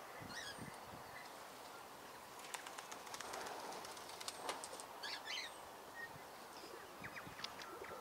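Small birds chirping in short, scattered bursts, with a run of quick clicks or rustles in the middle.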